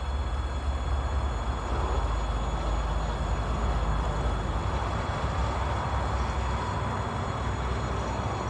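Double-deck passenger train hauled by an EP20 electric locomotive running past, with a steady low rumble of wheels on rails.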